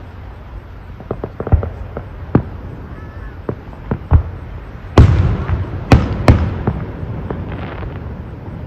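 Fireworks going off: scattered sharp bangs, then a cluster of three loud booms about five to six and a half seconds in, each followed by a crackling tail.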